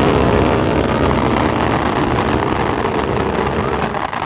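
Fireworks display going off as a dense, continuous rush of noise, with no single bang standing out, easing slightly near the end.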